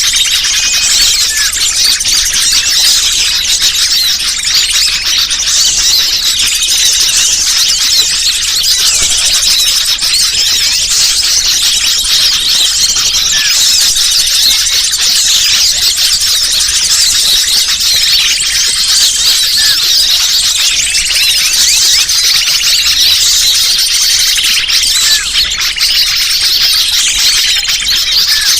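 Dense chorus of many small birds chirping and twittering in high, squeaky calls without a pause: a bird-trapping lure recording (suara pikat) meant to draw wild birds in.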